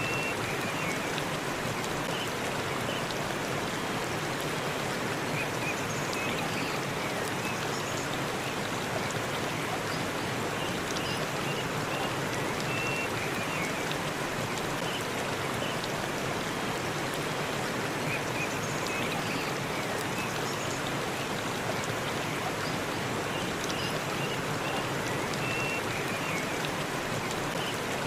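Waterfall in a forest: a steady, unbroken rush of falling water, with a few faint short high chirps now and then.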